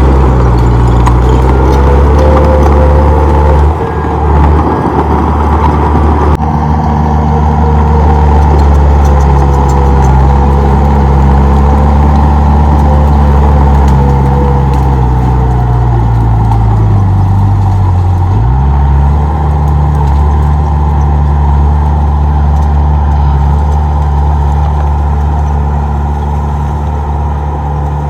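Komatsu D31P bulldozer's diesel engine running loud and steady. About two-thirds of the way through, the pitch sags and then picks back up.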